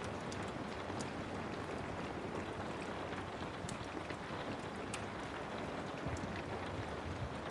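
Steady rain with a few sharp pops and crackles from a wood fire scattered through it.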